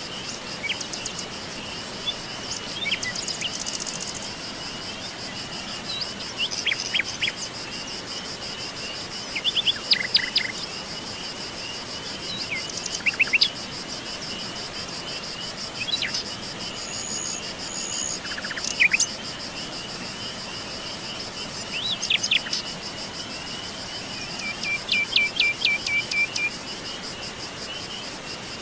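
Forest ambience: songbirds chirping and trilling at intervals over a continuous, rapidly pulsing insect trill, with a steady background hiss.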